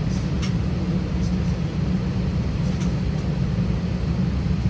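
Steady low rumble of cabin noise inside an Airbus A320 on the ground, with a few faint clicks in the first few seconds.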